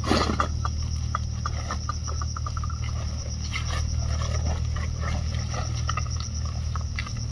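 Steady high-pitched drone of forest insects, with a low steady rumble underneath and scattered light clicks and ticks.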